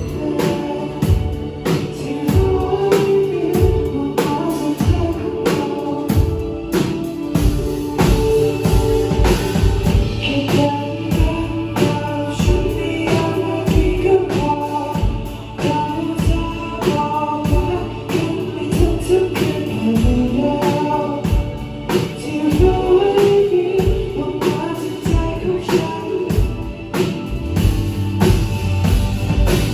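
Live band playing a song: a singer over a drum kit beating a steady rhythm, with pitched instruments underneath.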